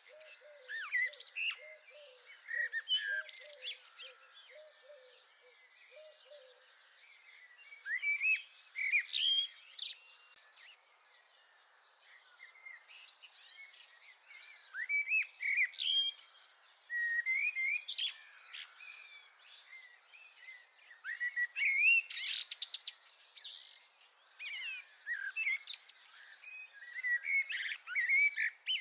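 Several small garden birds chirping and singing in overlapping short calls and phrases. A low, evenly repeated call runs through the first several seconds, and the loudest moment, about two-thirds of the way through, is a fast stuttering trill.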